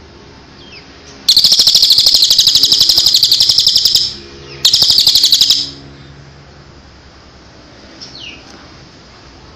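A songbird singing: a loud, rapid, high trill of about fifteen notes a second lasting close to three seconds, a short pause, then a second trill about a second long. Faint thin falling whistle notes come before and after.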